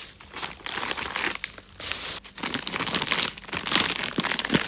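Plastic bags or food packaging crinkling and rustling as they are handled, in a continuous irregular stream of small crackles.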